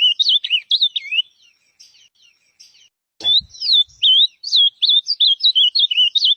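Ultramarine grosbeak (azulão) singing: a quick string of slurred, whistled notes. It pauses after about a second, then starts again with a short thump about three seconds in.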